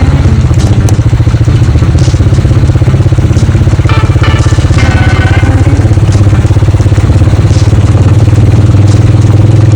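A vehicle engine running steadily: a loud, low drone with a fine, even pulse, and a few brief higher tones about four to five seconds in.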